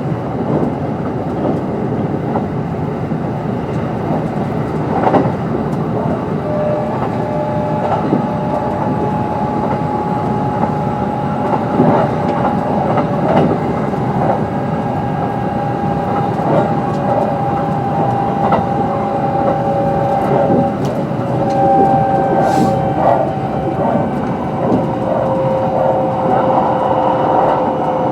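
Kintetsu 22600 series electric train running along the line: a steady rumble of wheels on rail, clicks over rail joints, and a steady whine from its Mitsubishi IGBT-VVVF-driven traction motors.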